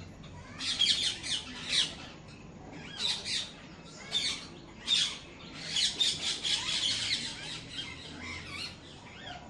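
Birds squawking and chirping in short, high calls that come in clusters, loudest about a second in and again around five to seven seconds in.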